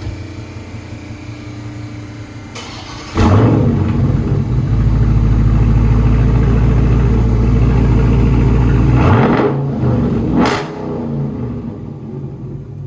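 Dodge Charger Scat Pack's 392 HEMI V8 exhaust, with the mid muffler removed. It runs at a lower level, then jumps suddenly much louder about three seconds in and holds steady for some six seconds. It then drops back, with one quick rev near the end.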